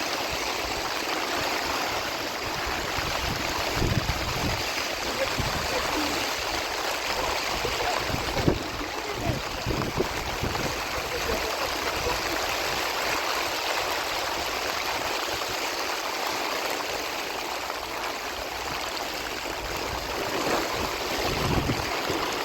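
Heavy rain falling steadily, a dense even hiss, with irregular low rumbling underneath.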